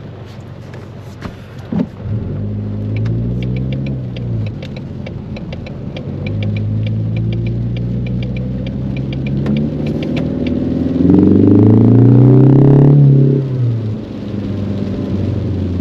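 Ford Mustang engine accelerating. It revs up from about two seconds in, dips briefly, runs steady, then climbs to its loudest pull around eleven to thirteen seconds before dropping off as the throttle is lifted.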